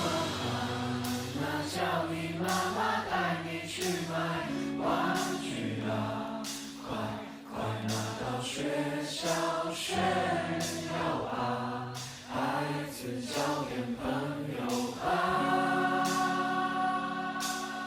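Rock band music with sung vocals carrying the melody over sustained guitar chords, and light cymbal strokes keeping time. A long held chord comes in about 15 seconds in.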